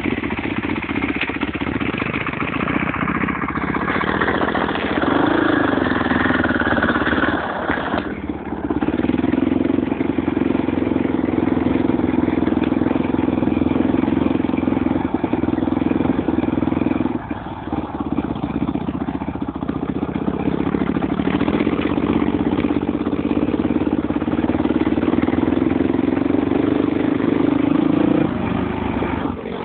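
Motorbike engine running at a fairly even pitch for long stretches. It dips briefly about eight seconds in, again about seventeen seconds in, and near the end.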